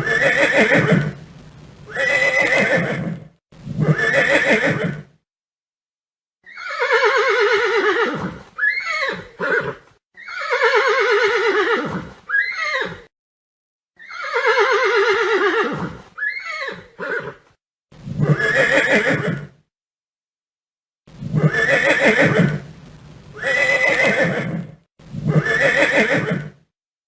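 Horse neighing and whinnying over and over, each call about one to two seconds long, with silent gaps between them. Some whinnies have a quavering pitch that falls away.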